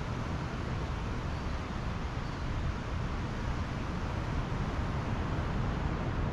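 Steady wash of Pacific Ocean surf on the beach, with a low rumble of wind on the microphone.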